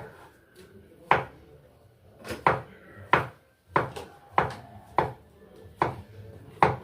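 Knife chopping cucumber on a cutting board: about ten sharp knocks, spaced unevenly a little over half a second apart.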